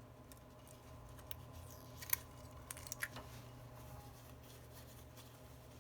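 A few faint, light clicks and taps of small tools and parts being handled during phone repair work, the sharpest about two seconds in and a quick cluster around three seconds, over a steady low electrical hum.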